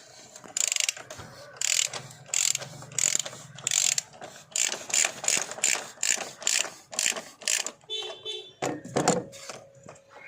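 Ratchet wrench clicking through a run of repeated strokes, one or two a second, as it loosens an engine's oil filter cap; the strokes stop about eight seconds in.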